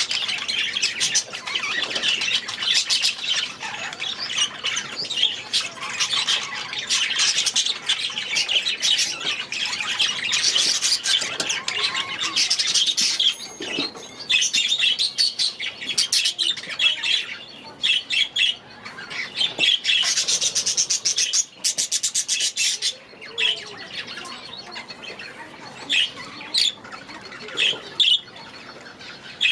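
A flock of young budgerigars chattering and squawking. It is dense and continuous for most of the stretch, then thins to a few separate calls near the end.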